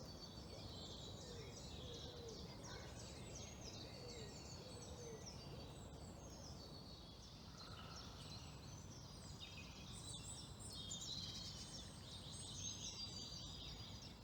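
Faint birdsong: small birds chirping and trilling in quick high phrases, busier towards the end, over a steady low background rumble.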